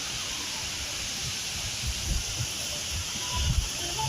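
Steady rushing hiss of the large indoor waterfall at Jewel Changi Airport (the Rain Vortex), with a few low bumps from about two seconds in.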